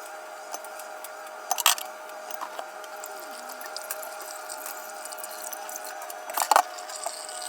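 A steady hum with a few light clicks over it, and two sharp knocks, one about a second and a half in and one near the end.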